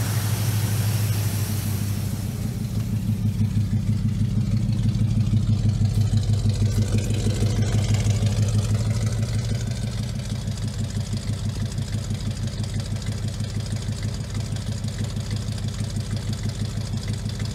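1968 Dodge Charger's V8 idling with a steady, pulsing low exhaust rumble, swelling a little louder for a few seconds in the middle.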